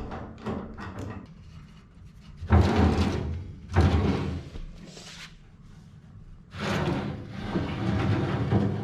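A broken fireplace blower being worked loose and pulled out of its metal housing under the firebox: a few sudden sliding clunks and scrapes of sheet metal, then a longer stretch of rubbing and scraping near the end.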